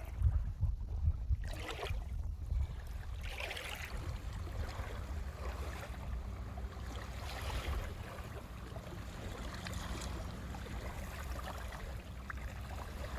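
Wind buffeting the microphone in an uneven low rumble, over a shifting wash of ocean surf.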